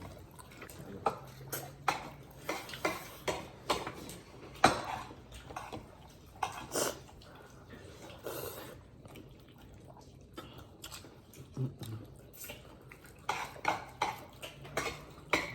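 Irregular clinks and taps of plates and eating utensils during a meal, the sharpest one about four and a half seconds in.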